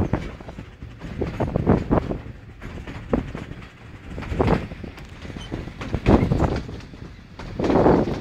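Narrow-gauge steam train running along the track, heard from aboard a carriage: wheels clattering on the rails over a low rumble that swells and fades every second or two.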